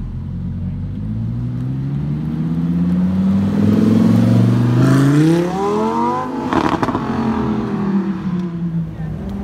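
Lamborghini Huracán Performante's V10 accelerating past at close range. Its note climbs in pitch for several seconds, then drops away as it goes by. There is a brief crackle about six and a half seconds in, and a lower engine note after it.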